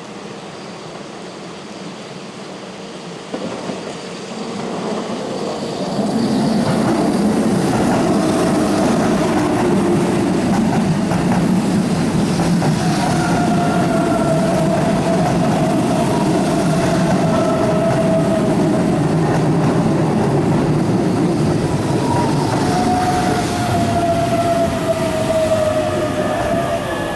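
Keihan 9000 series electric train running along a curved station platform: steady rolling rumble from about five seconds in, over rain hiss, with wheels squealing on the curve in two long, slowly falling squeals, one mid-way and one near the end.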